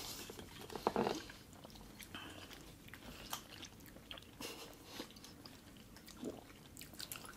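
Faint, wet chewing and mouth sounds of raw oysters being eaten, with a few small clicks and taps scattered through.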